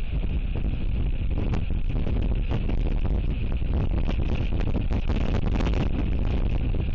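Strong wind buffeting the nest camera's microphone: a steady, low rumbling noise with frequent gusty thumps.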